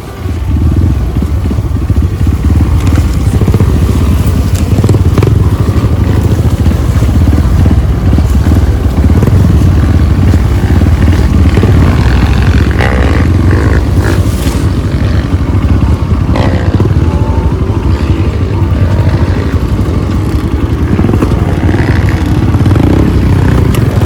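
Off-road motorcycle engine running loud and steady with a low rumble, with scattered knocks and scrapes over it.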